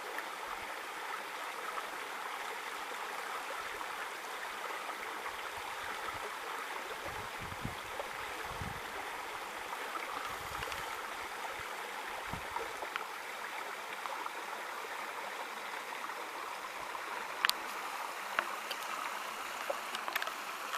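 Small, shallow stream running steadily over its bed. A few dull low bumps come through in the middle, and a couple of sharp clicks near the end.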